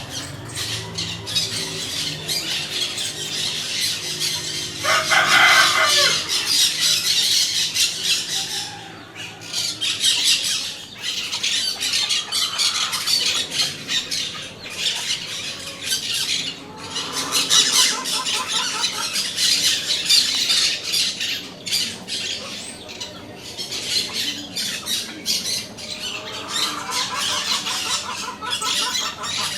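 Parakeets chattering and squawking without a break, with a louder screech about five seconds in and quick rattling calls later on.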